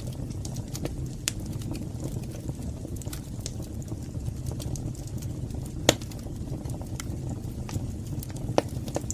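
Wood fire burning in a fireplace: a steady low rumble with scattered sharp crackles and pops, the loudest about six seconds in and again near the end.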